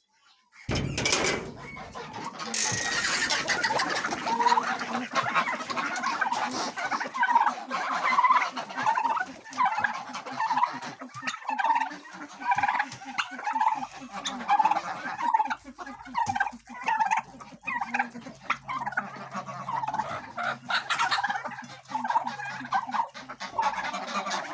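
A flock of domestic poultry, chickens and turkeys, calling over one another in many short repeated calls, several a second.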